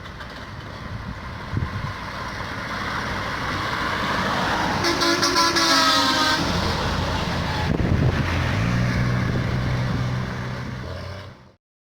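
A bus on the highway comes closer, its engine and road noise growing louder. It sounds a multi-tone horn for about a second and a half midway. After that, a steady low engine drone runs until the sound cuts off abruptly just before the end.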